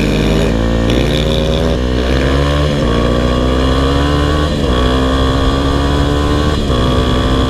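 Kawasaki KLX 300R's single-cylinder four-stroke engine running under way on a trail ride. The engine note dips briefly about four times, each time climbing back up as the throttle is reopened.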